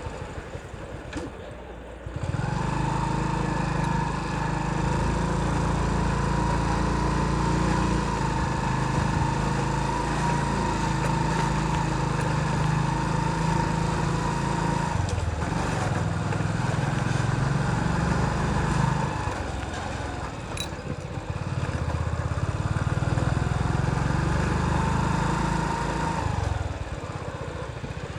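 Motorcycle engine running under load while riding up a mountain road. The engine eases off and picks up again several times: about two seconds in, around fifteen and twenty seconds, and near the end.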